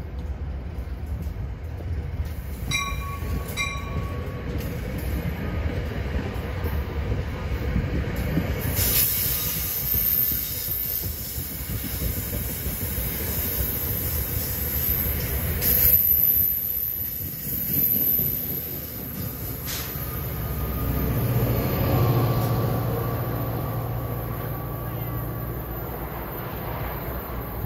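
Train running through the station with a steady low rumble of wheels on rail. Two short ringing tones come a few seconds in, and a high-pitched metallic squeal sets in about a third of the way through.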